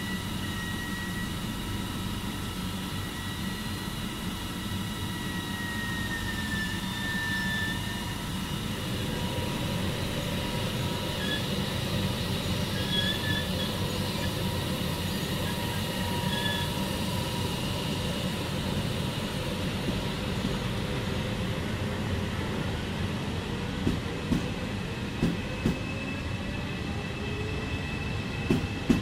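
Regional passenger train running along the station track with a steady rumble and high, steady whining tones. In the last few seconds the coach wheels knock over rail joints several times.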